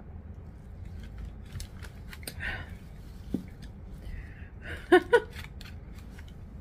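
Close-miked eating and drinking mouth sounds: scattered wet clicks of chewing and swallowing after a sip of soda, with a brief murmured vocal sound about five seconds in, the loudest moment.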